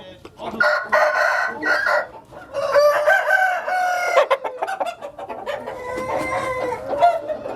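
Roosters crowing: two long crows in the first half, then further overlapping crows and clucking from several birds.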